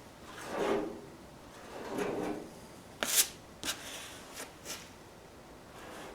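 A filler spreader scraping body filler across a car body panel in two long strokes, followed by a few short clicks and taps.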